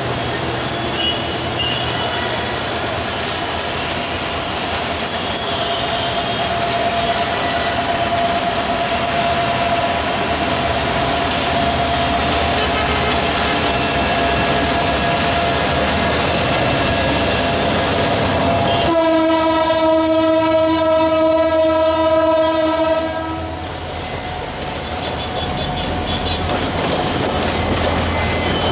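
Diesel locomotive hauling a long passenger train out of the station: a steady rumble of engine and wheels on the rails, then one long horn blast of about four seconds a little past halfway through.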